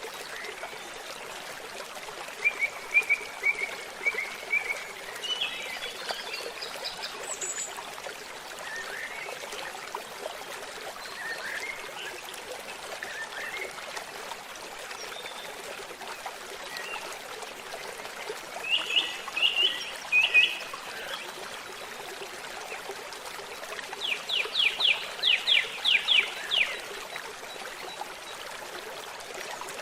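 A babbling stream runs steadily, with birds singing over it: short chirped phrases a few times, and a quick run of about ten sharp notes near the end.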